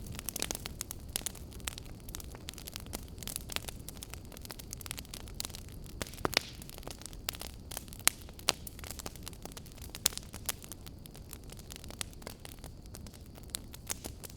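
Wood fire burning in a fireplace, crackling with irregular sharp pops over a low steady rumble; a few louder snaps stand out midway.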